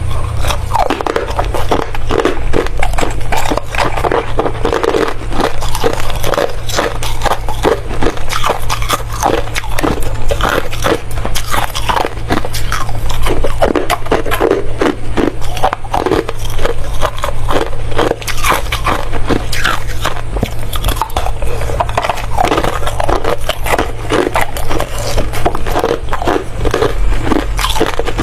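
A person biting and chewing hard ice close to the microphone: a continuous run of loud, sharp crunches and cracks.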